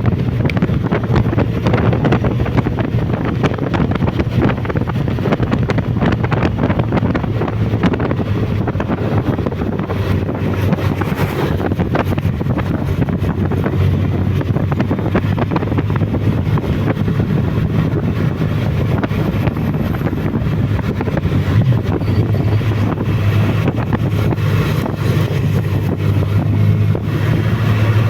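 Suzuki Bandit motorcycle's inline-four engine running steadily while riding, with wind buffeting the microphone.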